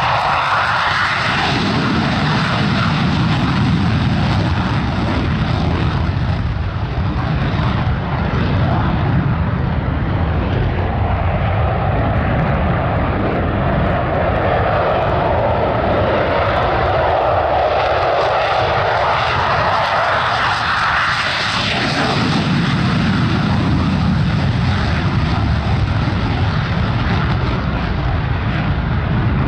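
Airplane engines running loud and steady, the pitch of the sound shifting twice, near the start and about two-thirds of the way through, as the aircraft passes.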